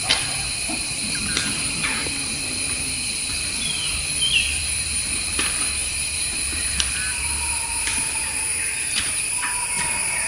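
Outdoor nature ambience: a steady high-pitched drone with a few short bird chirps about four seconds in, and scattered sharp clicks.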